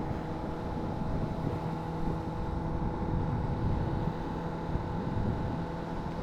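Honda CBR600RR's inline-four engine running at a steady cruise, its note holding level, over a rumble of wind and road noise.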